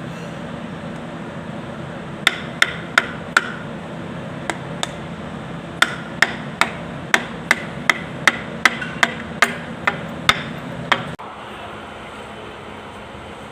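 Hammer tapping on metal: a few quick blows, a pause, then a run of about a dozen sharp strikes at two to three a second, some with a brief ring. A steady low hum runs underneath and drops off suddenly near the end.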